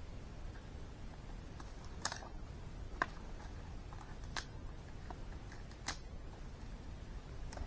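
About five sharp, short clicks or snaps at irregular intervals, over a low steady rumble.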